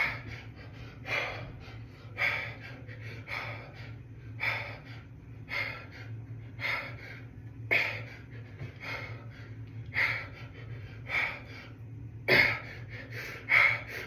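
A man breathing out hard in short, sharp puffs about once a second, one with each rep of a set of dumbbell hammer curls, over a steady low hum.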